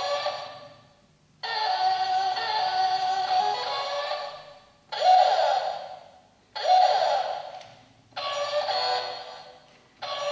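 Cheap battery-powered electronic toy playing short synthesized musical snippets. Five of them start abruptly in turn, each fading out over a second or two.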